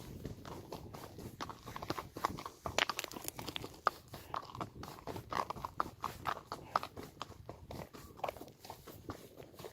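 A horse's hooves striking the ground at a walk: an irregular run of short knocks, several a second.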